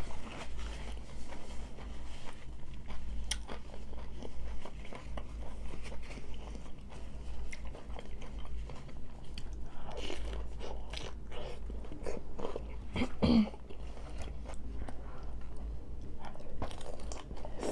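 Crunchy hard-shell tacos being bitten and chewed: a continuous run of crisp, irregular crunches.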